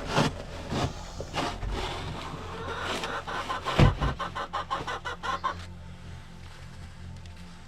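Chickens clucking, with a run of quick calls from about three to five and a half seconds in, over a steady low hum.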